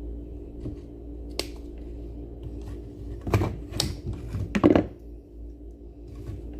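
Sharp clicks and snips of a hand tool cutting into a blender part, a few spread out and a louder cluster about three to five seconds in, over a steady low hum.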